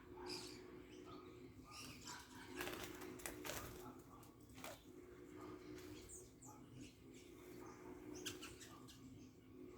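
Birds fluttering their wings in short bursts, with a few brief high chirps, over a faint steady hum.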